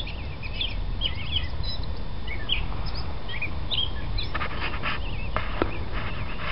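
Small songbirds chirping in quick, short notes over a steady low rumble, with a couple of sharp clicks near the end.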